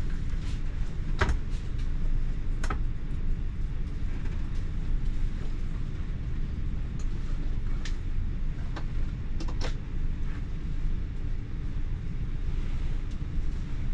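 Inside a moving TER regional train: a steady low rumble from the running gear on the track, with a few short clicks and squeaks scattered through it.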